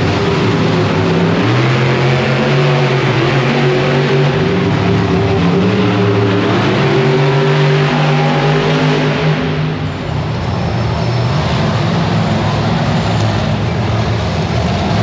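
Monster truck engine running loud, its pitch rising and falling in steps as the throttle is worked, easing briefly about ten seconds in.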